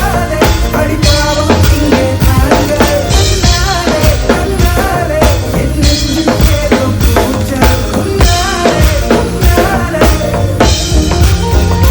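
Live band playing a pop song with the drum kit prominent: kick drum, snare and rimshots under bass and melody, with cymbal crashes every couple of seconds.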